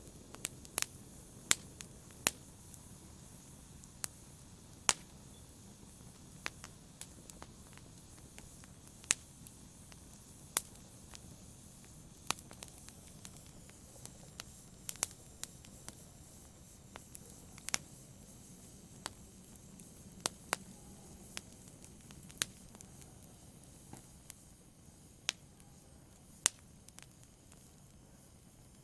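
Wood fire burning in a fireplace: a low steady rumble of flames with sharp, irregular pops and crackles from the burning logs, a few every couple of seconds.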